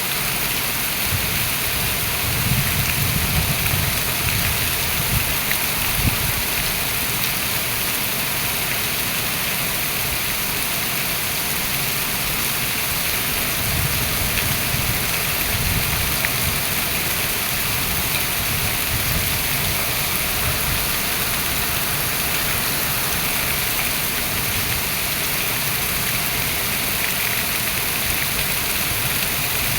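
Heavy rain pouring down steadily, a dense even hiss, with a few low rumbles in the first half.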